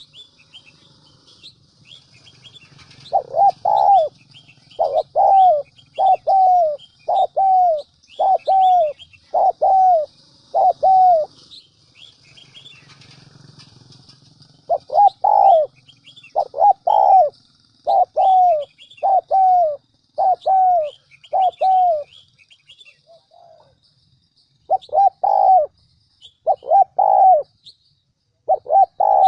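Spotted dove cooing: three runs of short, falling coos separated by pauses. Small birds chirp faintly in the background.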